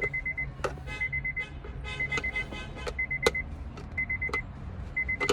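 Car warning chime in a 2003 Honda Accord beeping about once a second, each beep a short rapid run of high pulses. A few sharp clicks and knocks come from the console parts being handled.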